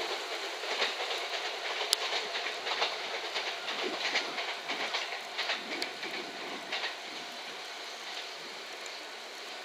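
JR West 227 series electric multiple-unit train running away on the rails, its wheels clicking and clattering over the track. The clatter thins out and fades about seven seconds in, leaving a steady hiss.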